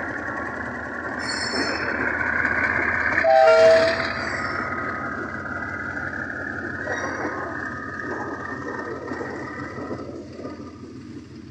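Pakistan Railways diesel-hauled passenger train running past on the track with a steady rumble of wheels and coaches. A short, loud horn blast sounds about three and a half seconds in. Brief high-pitched wheel squeals come about a second and a half and seven seconds in, and the rumble fades near the end as the train draws away.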